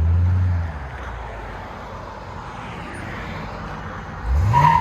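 V8 car exhaust driving off. A loud low burble for the first half second falls away to a steady, quieter drone, then about four seconds in the engine revs up sharply, rising in pitch.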